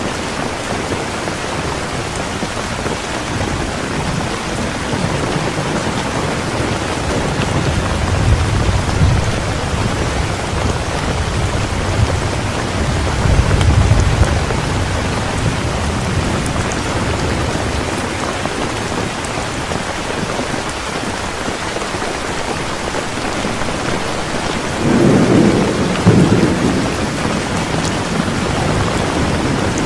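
Heavy rain falling steadily, with rolling thunder rumbling low twice in the first half and a louder, sharper thunder rumble about 25 seconds in.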